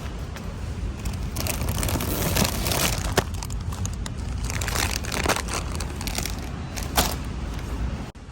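Crinkling and rustling handling noise, with sharp clicks about three seconds in and again about seven seconds in.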